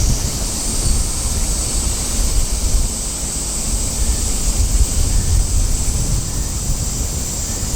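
Wind buffeting the microphone in uneven gusts, under a steady high hiss.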